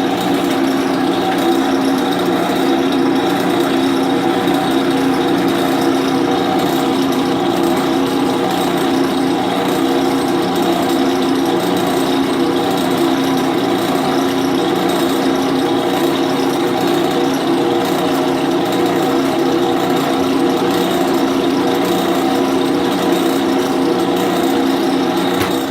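Drill press motor running steadily while a number 31 jobber bit drills through aluminum.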